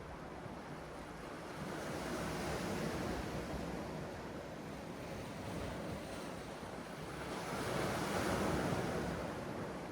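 Sea surf washing onto the shore, swelling about two seconds in and again, louder, near the end, with a steady hiss of water between the waves.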